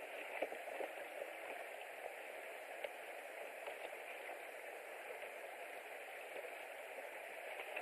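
Steady outdoor hiss picked up by the nest camera's microphone, typical of wind or light rain, with a few faint ticks.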